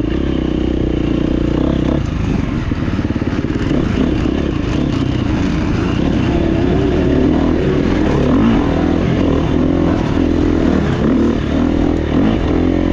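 GasGas EX350F dirt bike's 350 cc four-stroke single engine being ridden hard on trail, its pitch rising and falling as the throttle is opened and closed.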